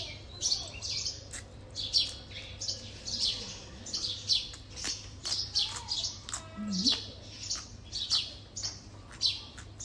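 Small birds chirping over and over, in quick, sharp chirps about two or three a second, over a steady low hum.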